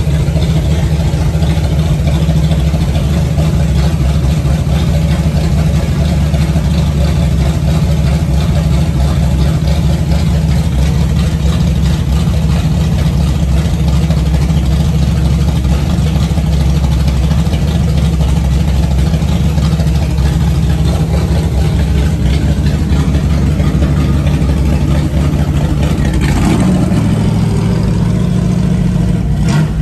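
Freshly built 360 stroker V8 engine running steadily on its first start-up. Its sound changes briefly about 26 seconds in and again near the end.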